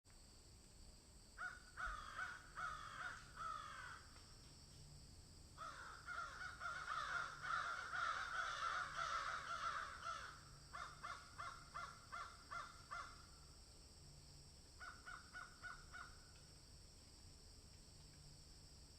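Birds calling in runs of short, harsh, rapidly repeated calls, four bursts broken by pauses, over a steady high hiss.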